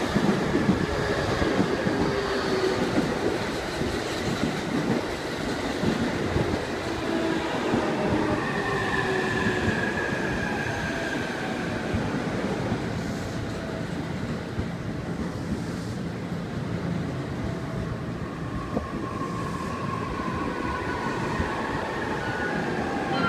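JR East E531 electric train pulling into the platform and slowing toward a stop, its wheels rumbling on the rails. The traction motors give a whine that falls in pitch as the train brakes.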